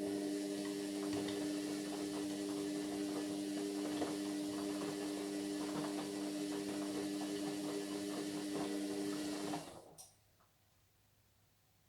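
Indesit MyTime washing machine running with a steady electric hum and a rush of water for about ten seconds. It cuts off abruptly with a click near the end.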